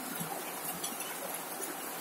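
Steady rain falling on a corrugated zinc roof, an even hiss of water with scattered sharp drop ticks.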